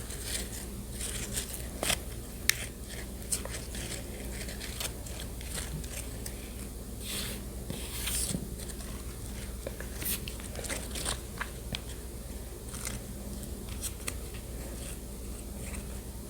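A small spoon stirring shredded coconut into yogurt close to the microphone: irregular soft scrapes and clicks against the container.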